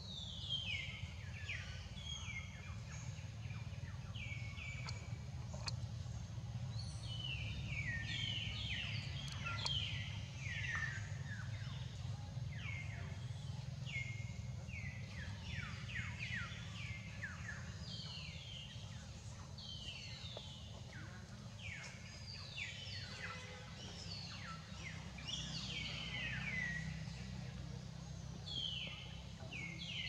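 Wild birds singing, many short whistled notes that each fall quickly in pitch, repeated and overlapping throughout, over a steady low hum.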